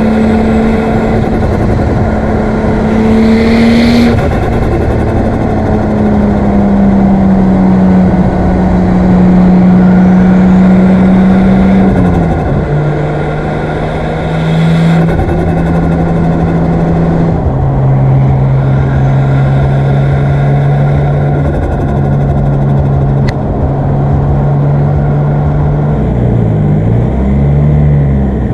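Nissan Skyline R34 GT-T's single-turbo RB25DET Neo straight-six running on the road, its note holding steady and stepping down in pitch a few times. Brief hissy bursts come about four and fifteen seconds in. Near the end the engine note swings up and down several times.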